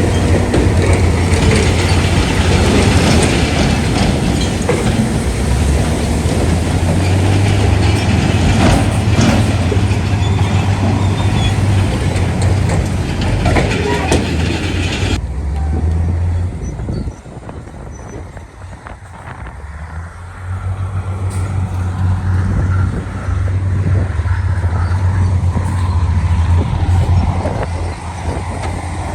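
Diesel engines of heavy earthmoving machinery running with a deep, steady rumble. About halfway through, the sound changes abruptly and drops away for a few seconds before the engine rumble returns.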